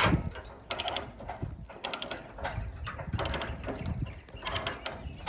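A ratchet mechanism clicking in four short runs, about a second and a half apart.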